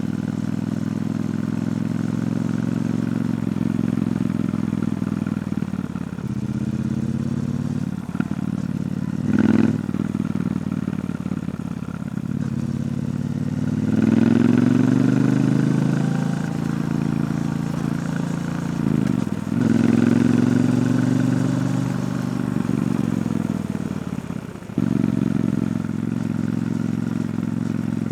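Stock exhaust of a Triumph Bonneville T120 parallel-twin motorcycle under way, the engine note rising as it accelerates about halfway through and again a few seconds later. It drops briefly near the end and then comes back sharply.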